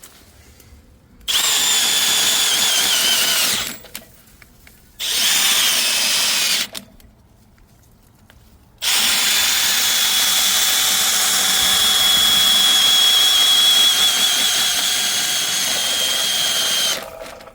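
Motor of a power drain-cleaning machine running in three trigger-controlled bursts: two short ones, then one long one of about eight seconds, each with a wavering high whine. It is spinning a cable fitted with 6-inch chain cutters inside a sewer line to tear out severe root intrusion.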